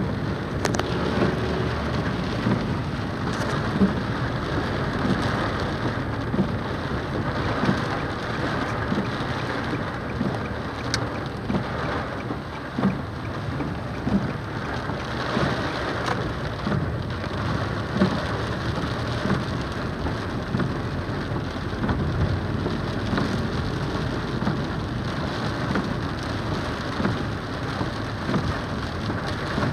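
Heavy rain falling steadily, with many close drops splashing in an irregular patter.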